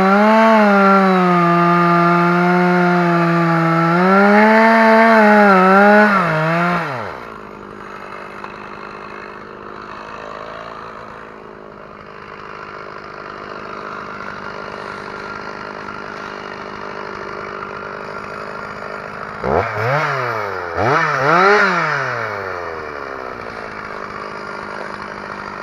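Two-stroke chainsaw running at high revs for about seven seconds, its pitch dipping and recovering, then dropping back to idle. It is revved twice in quick succession near the end.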